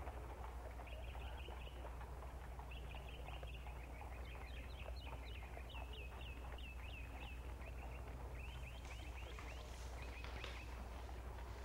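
Faint small birds chirping: runs of quick, high chirps, several a second, over a steady low hum.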